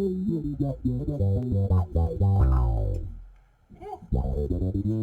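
Electric bass with roundwound strings played through a Mu-Tron/Q-Tron-style envelope filter pedal, each plucked note opening into a wah sweep. One note rings out and fades almost to silence about three and a half seconds in before the playing resumes.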